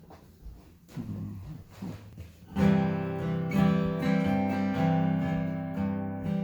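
Acoustic guitar playing a song's intro: a few soft plucked notes, then full strummed chords starting about two and a half seconds in.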